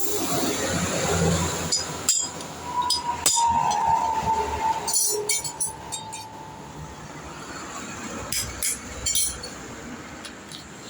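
Metal clinks and knocks, with a thin squeak lasting about three seconds starting near the third second.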